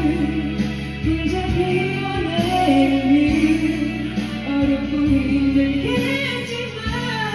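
A woman singing a Korean ballad over a karaoke backing track, her melody moving over held bass notes.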